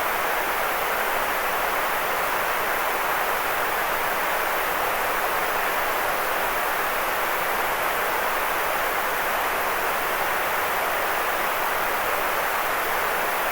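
Steady white noise: an even, unchanging hiss, strongest in the middle range and thinner in the lows and highs.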